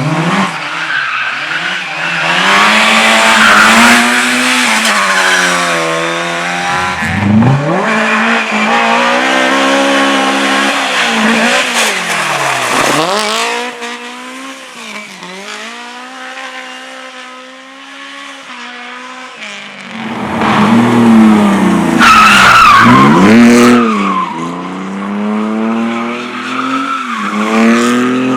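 Race car engine revving hard, its pitch repeatedly dropping off and climbing again as the throttle is lifted and reapplied, with tyres squealing in bursts a few seconds in and again near the end.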